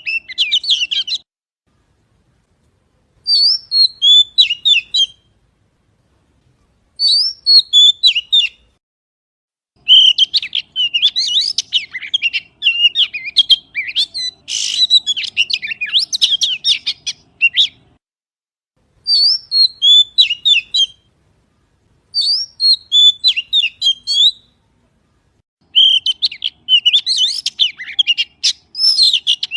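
Magpie singing: a series of short bursts of quick, warbling whistled and chattering notes, separated by pauses of a second or two, with one longer unbroken run of song in the middle.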